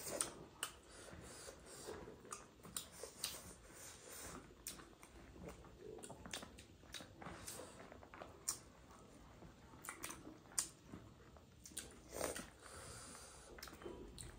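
Close-up eating sounds from chewing chicken biryani: faint, with irregular wet mouth smacks and clicks, a few of them sharper than the rest.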